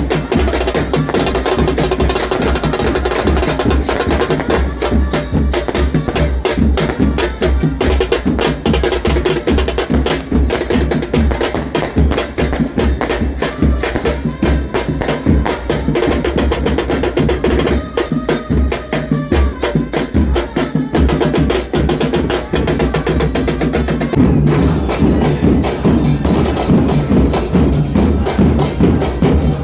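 Supporters' drum band playing: bass drums pounding under rapid stick strokes on snare drums, in a dense, unbroken rhythm.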